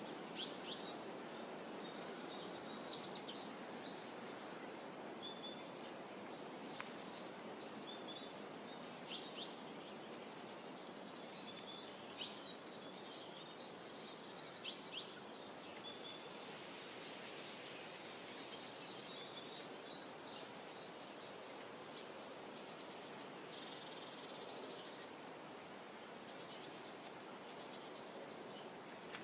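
Small songbirds chirping and trilling, with short high calls and quick falling notes coming every few seconds, the loudest about three seconds in, over a steady low hush of ambient outdoor noise.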